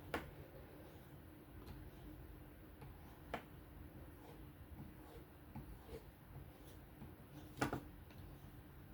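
Quiet stropping of a knife edge on a strop loaded with 1.5 micron emulsion, with three light clicks of the blade, the loudest near the end, over a faint steady hum.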